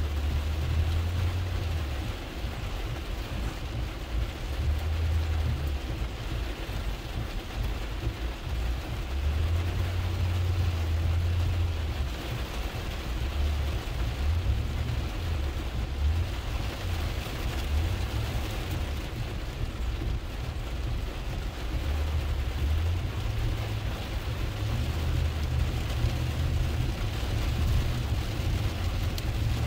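Truck driving through deep floodwater in the rain, heard inside the cab: a steady low rumble that swells and fades, with a continuous hiss of rain and splashing water.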